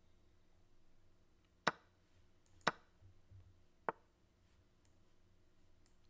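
Three sharp clicks about a second apart as moves are made in a fast online chess game, over a faint quiet room background.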